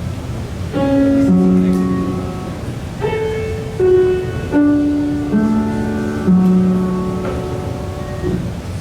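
A musical instrument plays a short melodic phrase of about eight held notes, each struck and left to ring and fade, over the steady background noise of the room.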